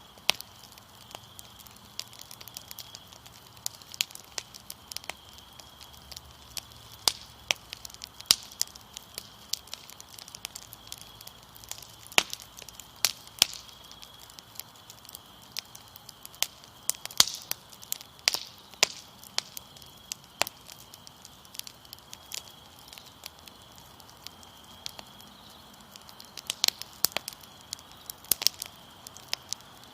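Fire crackling with irregular sharp pops, over a steady high-pitched trill of crickets.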